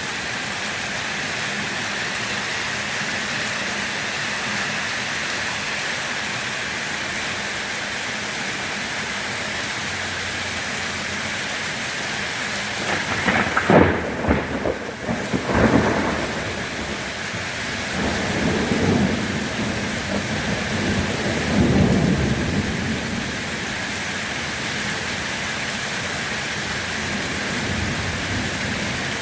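Steady rain falling throughout, with a sharp crack of thunder about halfway through, a second soon after, and low rumbling thunder rolling on for several seconds.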